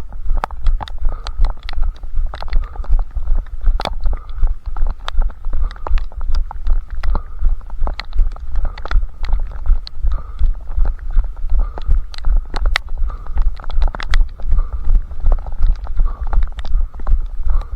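Running footfalls, about three a second, each a heavy low thud jolting a head-strapped camera, with sharp ticks on top of the strides.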